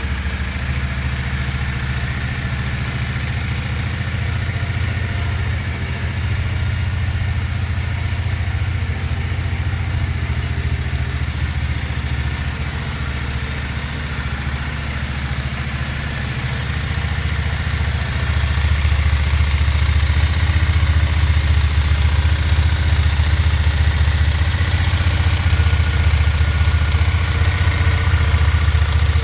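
2007 Triumph Speedmaster's carbureted parallel-twin engine idling steadily while it warms up from a cold start on the choke. It gets a little louder about two-thirds of the way through.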